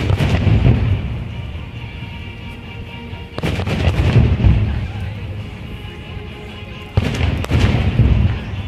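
Aerial fireworks shells bursting: three loud booms about three and a half seconds apart, each with a sharp crack and a low rumbling echo that dies away over a second or so.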